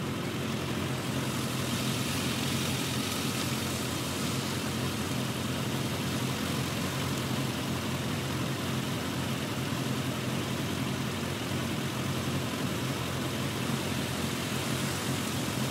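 Car engine idling, a steady low drone with an even hiss over it, heard from inside the car's cabin.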